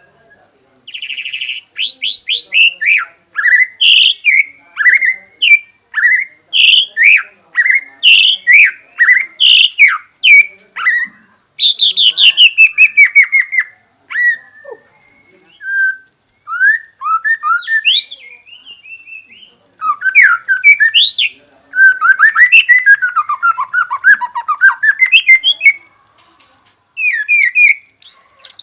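White-rumped shama (murai batu) singing loudly in a long run of varied phrases: clear whistles, quick falling sweeps and rapid trills, with a long falling rattle a little before the middle. The song is of the kind Indonesian keepers call 'full isian', filled with imitated songs of other birds.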